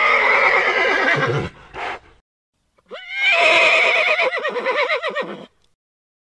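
Horse whinnying twice: a first neigh of about a second and a half, then a longer, quavering neigh starting about three seconds in. A brief breathy sound falls between them.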